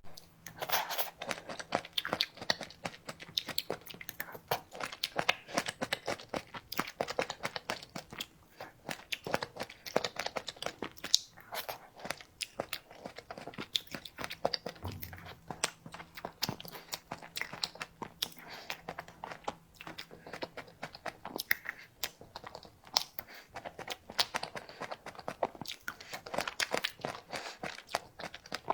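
A person eating grape cake close to the microphone: biting and chewing, a dense run of sharp little clicks throughout.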